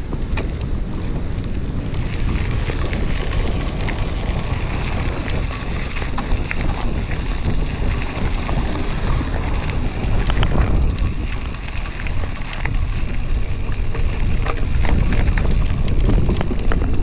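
Wind buffeting the microphone of a camera carried on a moving bicycle, a steady low rush with scattered sharp clicks throughout.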